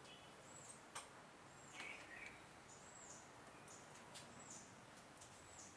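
Near silence with faint, high-pitched chirps repeating about every half second from a small bird calling, and a single click about a second in.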